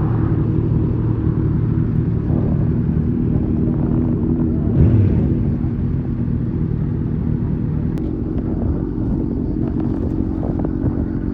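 Motorcycle engine idling steadily, with a brief louder swell about five seconds in.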